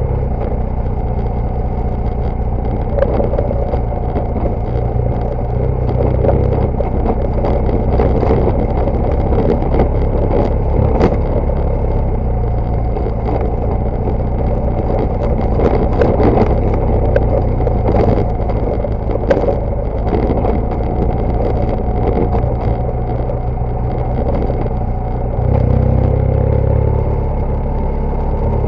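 BMW GS Adventure motorcycle engine running steadily on an off-road ride, with sharp clicks and knocks, most of them in the middle of the stretch, from stones and the bike jolting over rough ground.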